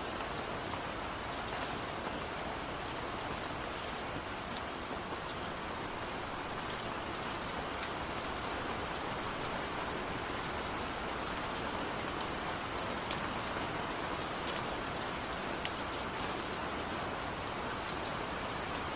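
Steady, even rainfall, with many individual drops landing as sharp little ticks scattered through it.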